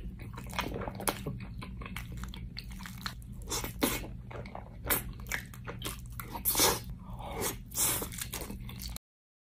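Close-miked chewing and mouth sounds of a person eating mac and cheese with a fork: irregular wet smacks and clicks over a low steady hum. The sound stops abruptly near the end.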